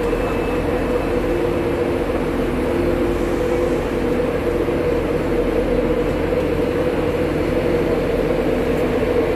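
Steady engine drone of a passenger train standing at the platform, idling with a constant low hum and a few steady tones.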